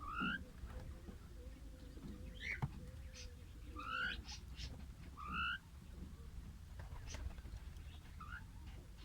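Lovebirds calling: about five short, sharp rising chirps, spaced a second or two apart.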